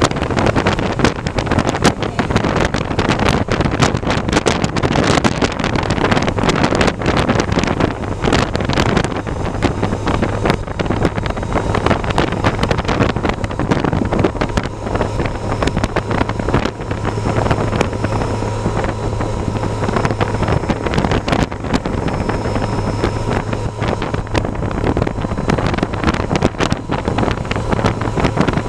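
Heavy wind buffeting and crackling on the microphone while riding, over a steady low drone that strengthens from about seventeen seconds in.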